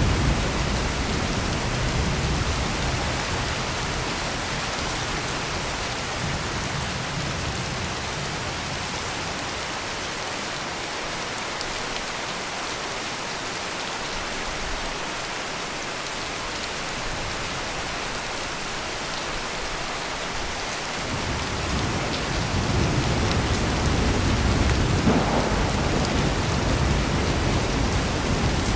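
Heavy, steady rain with rolling thunder. A low thunder rumble fades over the first few seconds, rain alone carries through the middle, and another long, low rumble of thunder builds about three quarters of the way in.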